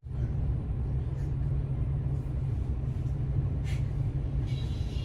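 Steady low rumble, with a brief faint hiss a little before four seconds in.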